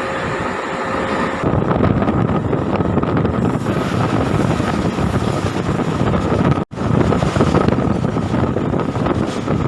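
MEMU electric train running along the line: a steady rumble with rushing wind noise that grows louder about a second and a half in. The sound cuts out for an instant about two-thirds of the way through.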